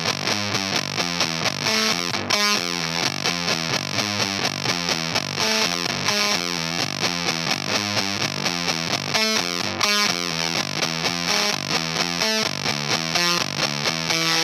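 Baritone electric guitar played through an EarthQuaker Devices Erupter fuzz pedal, with the fuzz control set at about 40%. It plays a fast, steady, rhythmic riff of heavily fuzzed low notes throughout.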